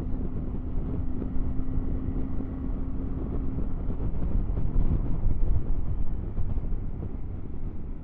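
Triumph Tiger 900 GT Pro's three-cylinder engine running at a steady road speed, buried in heavy wind rumble on the microphone. A steady engine note fades out about halfway through.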